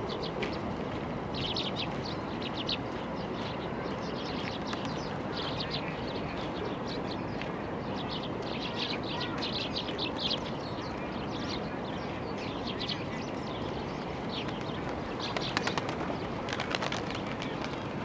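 Small birds chirping in quick clusters of short, high notes, busiest in the first half, over a steady background rumble. A couple of brief louder crackling bursts come near the end.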